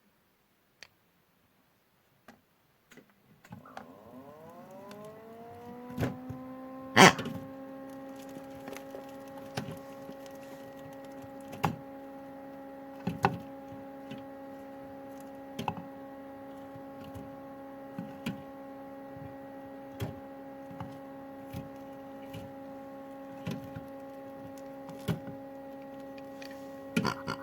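LG washing machine starting up: after a few seconds of quiet its motor gives a rising whine that settles into a steady hum. Short knocks come every one to two seconds as the drum turns with the eggs inside.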